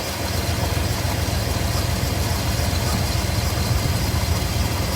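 1998 Chevy C/K 1500's 5.7-litre V8 idling steadily as it warms up.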